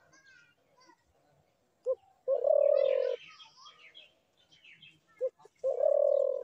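A dove cooing twice: each call is a short note followed by a long, low coo, with the two calls about three seconds apart. Faint chirps of other small birds sound between the calls.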